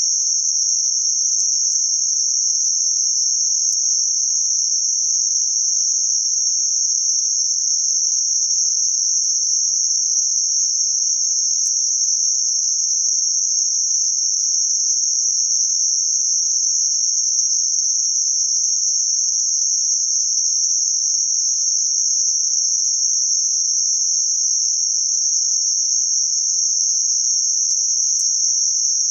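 Synthetic band-limited noise centred around 6051 Hz: a steady, high-pitched hiss.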